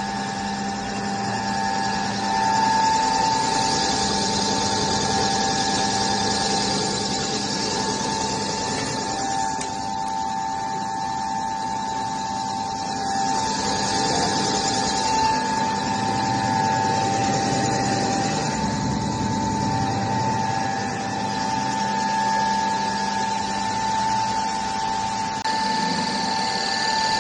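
Floating fish-feed pellet extruder machine running steadily, a constant mechanical hum and whine over a noisy rush.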